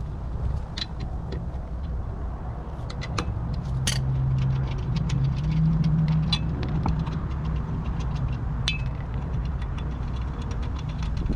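A vehicle engine running steadily, its pitch rising a little near the middle and settling again, with scattered metallic clicks and clinks over it.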